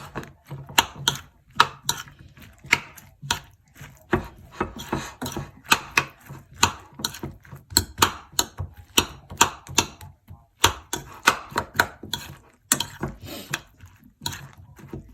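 A utensil clicking and scraping against a bowl as raw eggs are mixed into cold cooked rice: quick, irregular clicks, several a second.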